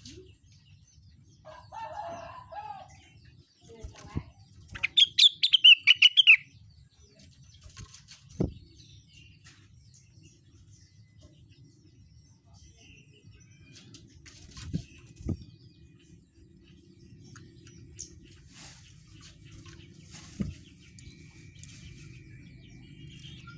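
A rengganis songbird gives a short, lower call, then about five seconds in a loud, rapid burst of high warbling notes. After that come scattered soft thumps and a few faint chirps over a steady low hum.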